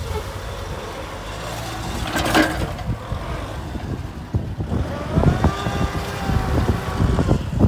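Kubota M6040 tractor's diesel engine running with a low rumble. There is a brief loud burst of noise a couple of seconds in, and a higher whine joins about five seconds in.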